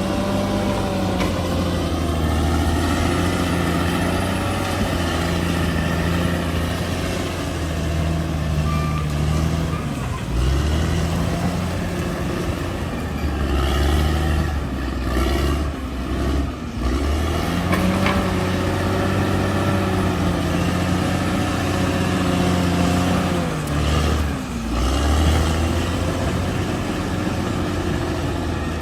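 Bulldozer's diesel engine running hard as it works, its revs dipping and climbing again several times.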